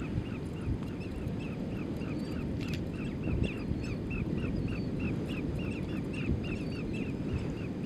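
A bird calls over and over in a steady series of short, hooked notes, about three or four a second, over a steady low rumble.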